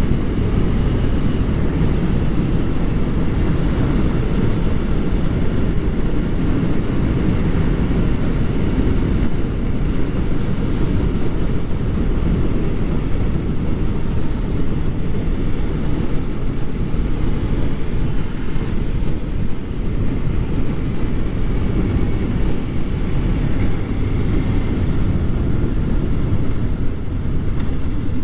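Heavy, steady wind rush on the microphone from a moving Kawasaki Ninja 400, with the bike's parallel-twin engine running underneath.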